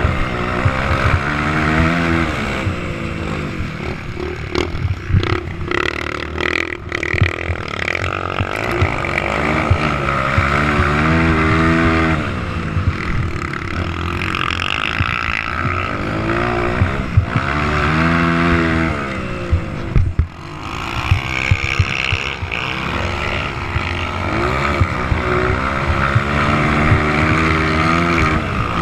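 Motocross bikes running on a dirt track, several at once, their engines revving up and dropping again every few seconds as they go through the straights and corners.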